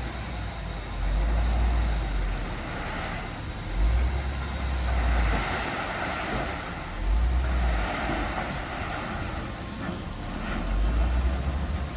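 Heavy diesel earthmoving machinery working, its low engine rumble swelling and easing every few seconds as it takes load.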